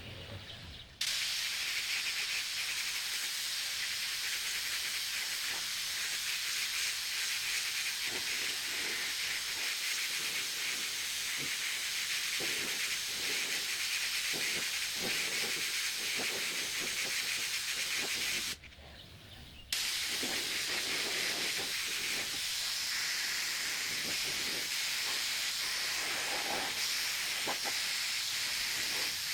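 Compressed-air paint spray gun hissing steadily as it sprays a coat of paint onto a steel wheel rim. It starts about a second in, stops for about a second roughly two-thirds of the way through as the trigger is let off, then carries on.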